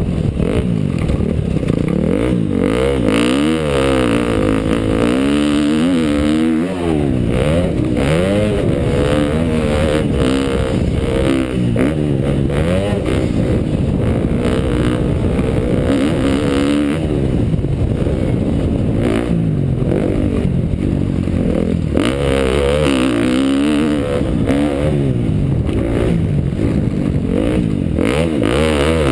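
2012 KTM dirt bike engine under riding load, its pitch climbing and falling again and again as the throttle is opened and closed.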